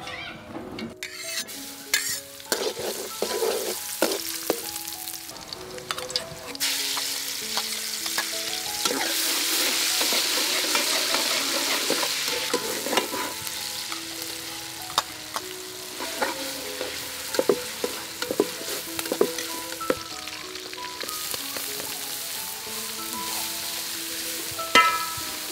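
Food frying in hot oil in a metal pot, a sizzle that swells a few seconds in, with a spoon scraping and knocking against the pot as it is stirred. A soft instrumental melody plays underneath.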